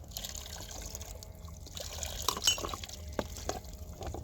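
Water splashing and trickling, with a few sharp clicks and knocks.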